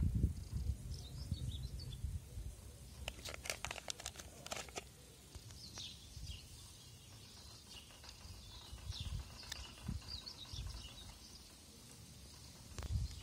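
Small birds chirping in the background, with a low rumble of wind on the microphone near the start and a short run of sharp clicks about three to five seconds in.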